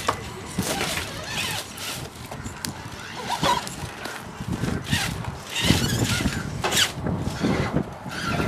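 Radio-controlled trucks' electric motors and gears whining in short, irregular bursts that rise and fall as they are driven.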